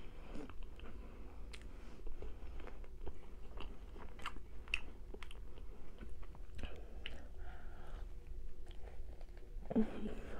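Close-up chewing of a soft whipped-cream-topped bun, with many small scattered mouth clicks and smacks. Another, louder bite comes near the end.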